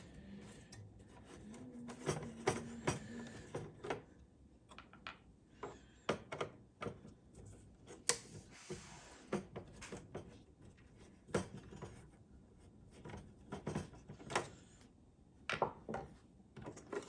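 Scattered clicks, taps and short rubbing sounds of small parts being handled as the two-screw shift-indicator assembly is taken off the back of a 1984 Dodge D150 gauge cluster.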